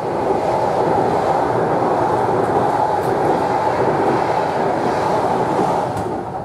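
Passenger train coaches passing close at speed: a loud, steady rush of wheels running on the rails, fading near the end.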